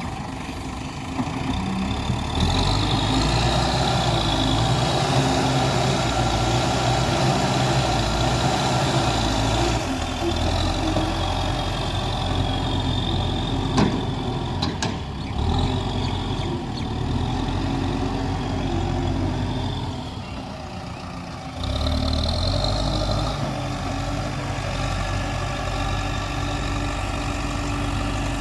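Diesel engine of an earthmoving machine working under load, revving up about two seconds in, easing off near twenty seconds and revving up again a couple of seconds later, with one sharp knock about halfway through.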